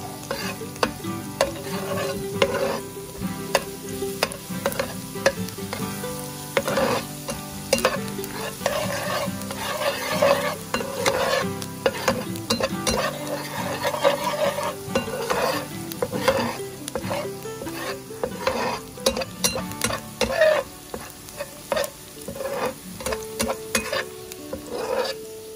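Chopped garlic sizzling in hot oil in a pan, with a metal spatula scraping and tapping against the pan many times as it is stirred.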